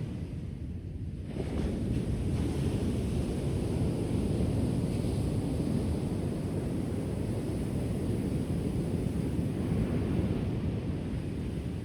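Ocean surf washing onto the shore, a continuous rushing noise that swells up again about a second and a half in.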